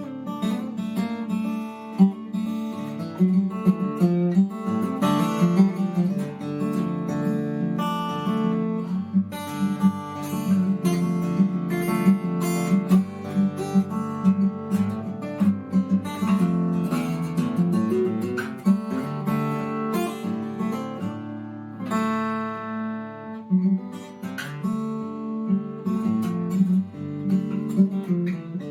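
Seagull S6 steel-string acoustic guitar in DADGAD open tuning, played solo: a continuous improvisation of quick plucked notes and strums over low strings left ringing.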